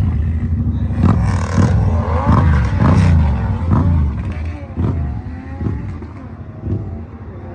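Drag-racing motorcycle engines at full throttle accelerating down the strip. The pitch climbs and drops back several times as they shift up through the gears, and the sound fades as the bikes pull away.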